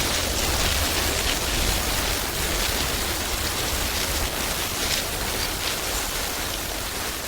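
Outdoor forest ambience: a steady hiss with a low rumble that eases off about halfway through, and a few faint short crackles.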